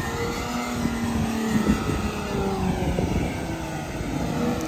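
Off-road Jeep engine running and revving, its pitch slowly rising and falling as the throttle changes.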